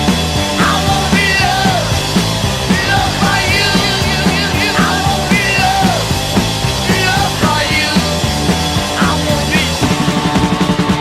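Instrumental passage of a punk-rock song with a steady driving beat and no singing. Near the end comes a quick run of rapid beats.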